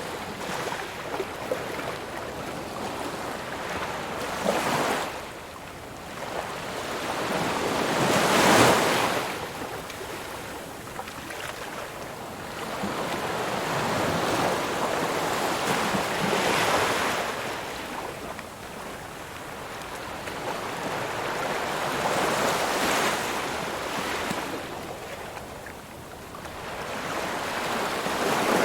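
Ocean waves breaking on a shore: surf rushes in and washes back in slow, repeated swells, each rising and fading over a few seconds. The loudest wave breaks about a third of the way through.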